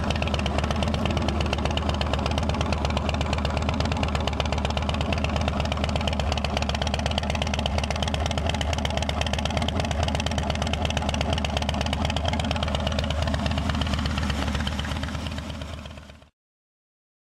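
Motorcycle engine running steadily, fading out near the end.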